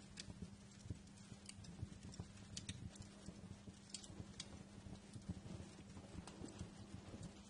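Wood fire crackling in a fireplace: irregular, scattered sharp pops and snaps over a low rumble, with a faint steady hum underneath.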